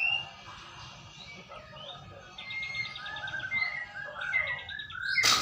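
White-rumped shama singing a varied song of whistled notes and rapid trills. A loud, harsh, noisy note comes near the end.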